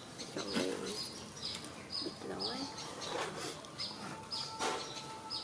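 A small bird chirping over and over: short, high, falling chirps, roughly twice a second.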